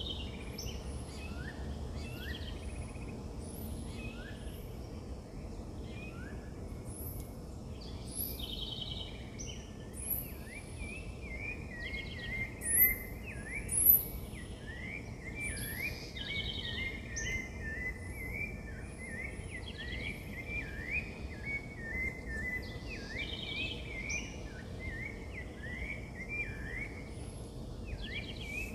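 Several wild birds singing and calling together: repeated high, quick chirps, short buzzy trills every few seconds, and from about a third of the way in a long run of rapid chirping notes, over a steady low background rumble. Two louder high calls stand out near the middle.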